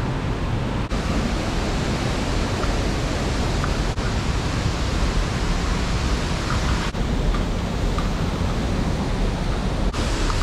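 Waterfall at Greeter Falls rushing as a steady, loud noise. Brief dips break it about every three seconds.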